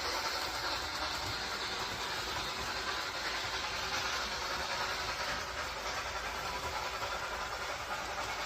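A train running on its track: a steady rushing noise with some hiss, easing slightly near the end.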